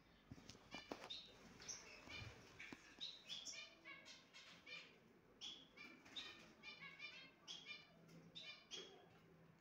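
Small aviary birds chirping faintly: many short, high chirps in quick succession.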